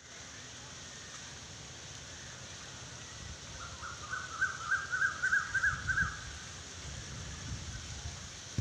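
A bird calling in a quick run of high, chirping notes for about two seconds midway, over a steady low outdoor rumble.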